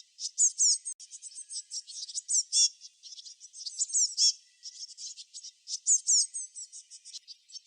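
Songbirds chirping in a dense, rapid stream of high-pitched notes, with louder phrases of quick down-slurred whistles recurring every couple of seconds.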